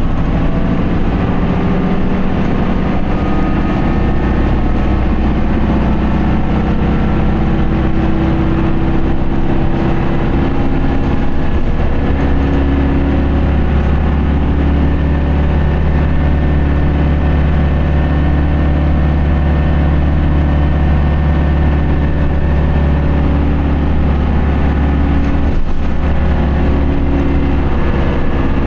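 Isuzu Erga city bus's four-cylinder turbo-diesel engine running, heard from inside the bus. The engine note wavers slightly at first, then holds a steady pitch from about twelve seconds in.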